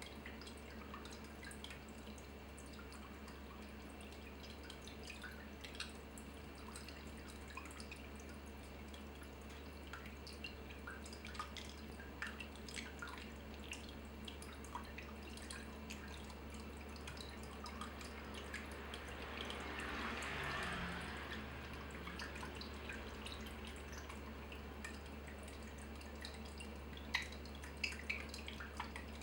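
Water dripping and trickling: a steady patter of small drips over a low, steady hum, with a brief louder rush of water about twenty seconds in and a few sharper drips near the end.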